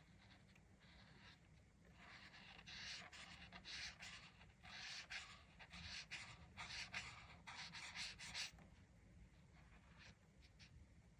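Faint scratchy strokes of a colouring tool rubbing back and forth on paper, in a quick run of strokes from about two seconds in until near the end, then fainter.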